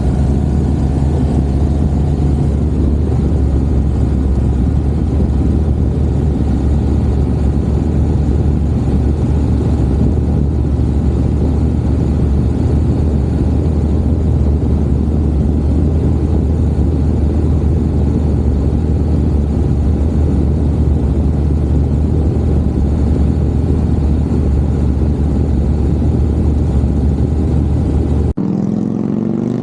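Moto Guzzi V7 Racer's 750cc V-twin engine running steadily at cruising speed, with wind rush. Near the end the sound changes abruptly and the engine note rises as it accelerates.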